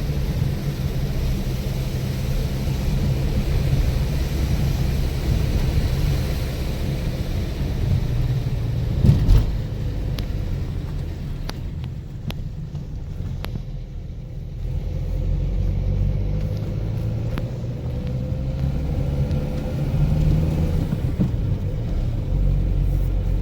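Car driving, heard from inside the cabin: a steady engine and road rumble with a brief louder jolt about nine seconds in.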